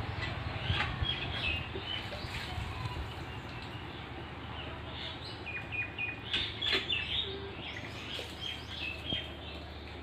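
Birds chirping: many short, high chirps and twitters, thickest around the middle, over a steady low hum.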